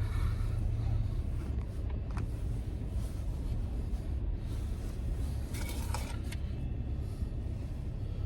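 Car engine running steadily, a low rumble.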